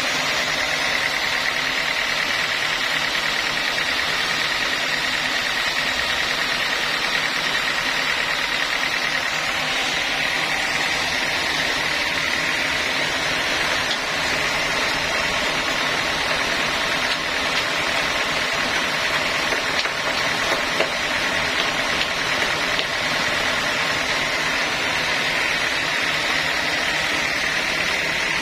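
Sawmill saw running steadily, with a constant high whine over the machine noise.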